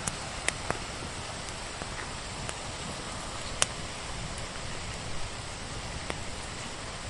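Steady rain mixed with a crackling wood fire: an even hiss of rain with a few sharp pops scattered through it, the loudest about halfway through.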